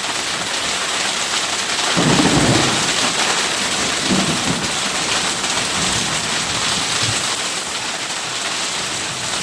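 Heavy rain pouring down steadily, with a long roll of thunder rumbling in about two seconds in and lasting several seconds.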